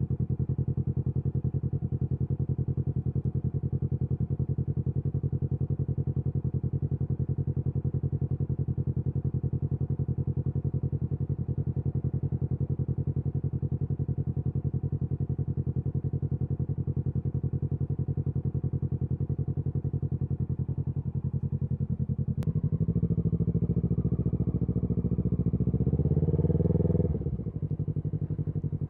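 Kawasaki Z650's parallel-twin engine idling steadily through an SC Project aftermarket exhaust. About 22 seconds in, it is revved up steadily for about five seconds, then drops sharply back to idle.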